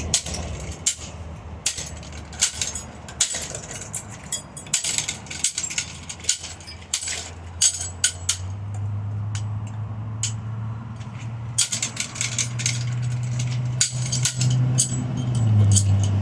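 Rapid, irregular clinking and rattling of hard loose pieces. A low steady hum comes in about halfway through and rises in pitch near the end.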